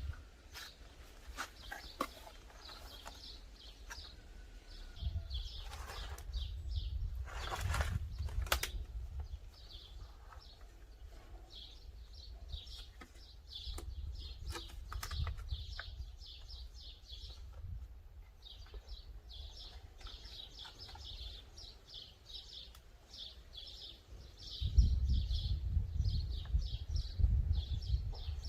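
Small birds chirping repeatedly in the background. A couple of brief rustles come about six and eight seconds in, and a low rumble starts near the end.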